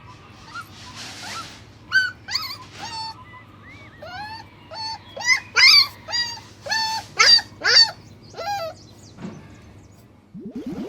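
Puppy yelping: a run of about a dozen short, high cries, each rising then falling in pitch, starting about two seconds in and loudest in the middle.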